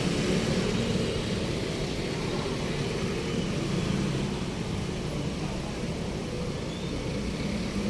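Steady street traffic noise: passing vehicles' engines and tyres running with a low hum.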